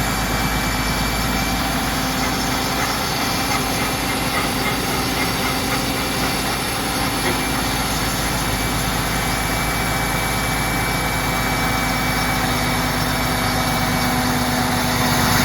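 Large crane's diesel engine running steadily, a constant hum with a steady low tone, slightly louder near the end.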